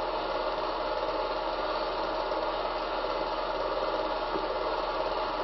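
Steady mechanical whirr with a fine flutter, over a low constant hum.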